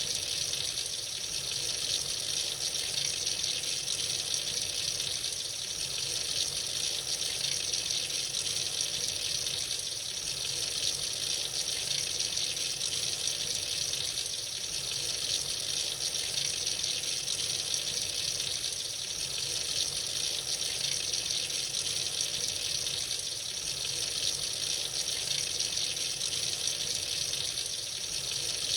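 Water running freely from a tap into a sink in a steady stream, an even hiss with no change.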